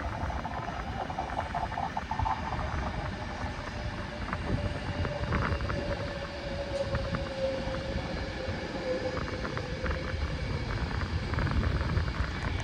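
Avanti West Coast Pendolino electric train slowing into the station, a steady whine that falls slightly in pitch as it brakes to a near stop, over a low rumble with scattered light clicks.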